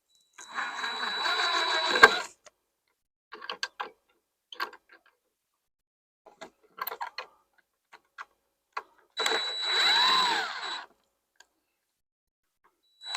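Cordless drill driving screws into framing lumber in two runs of about two seconds each, one just after the start and one about nine seconds in, its motor pitch rising and falling. Light clicks and knocks from handling the tool and wood come in between.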